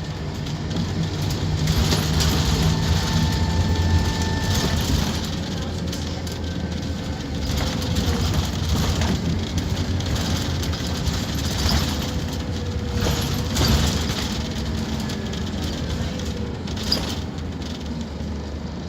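Scania K230UB Omnilink bus running under way: its diesel engine drones steadily, with a steady whine in the first few seconds, then a fainter whine slowly falling in pitch, and scattered knocks and rattles.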